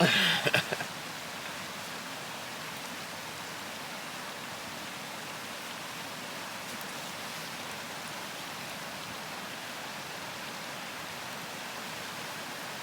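Steady, even rush of running water from a nearby brook.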